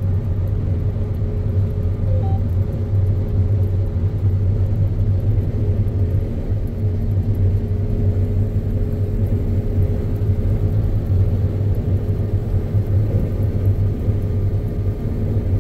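John Deere X9 combine running steadily while harvesting canola, heard from inside the cab: an even low drone with a faint constant whine above it.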